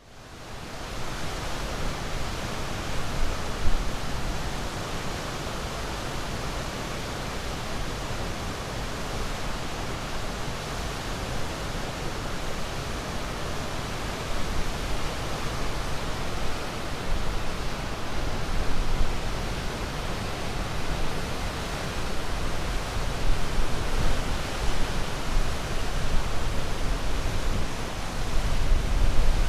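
Sea waves making a steady rushing wash with gentle swells in loudness every few seconds; it fades in over the first second.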